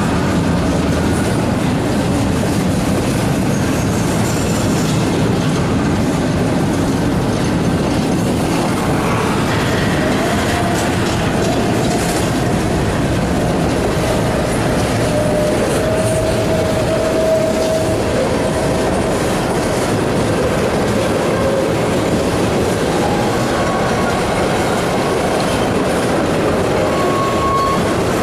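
Freight cars of a passing train rolling by close: double-stack well cars, then a boxcar and tank cars. Their steel wheels make a steady, loud rumble and clatter on the rail. A thin wheel squeal comes and goes in the middle and again near the end.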